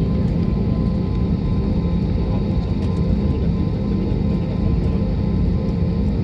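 Steady drone of a jet airliner's engines and airflow heard inside the passenger cabin: a dense, even low rumble with a few steady hums, unchanging throughout.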